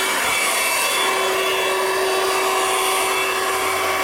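Audew 12V handheld car vacuum cleaner running steadily: an even rush of air with a steady motor whine.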